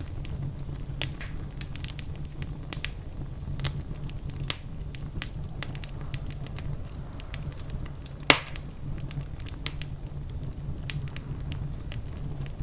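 Wood fire in a fireplace crackling, with frequent sharp snaps and one loud pop about two-thirds of the way through, over a steady low rumble.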